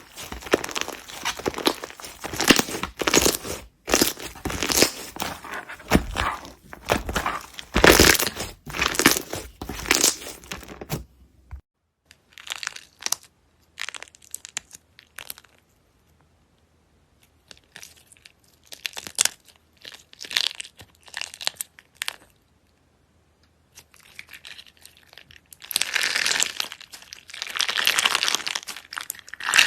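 Slime being squeezed and worked by hand, giving dense crackling and popping clicks. The sound cuts off suddenly about halfway through, gives way to sparser pops with short silent gaps, and turns to dense crackling again near the end.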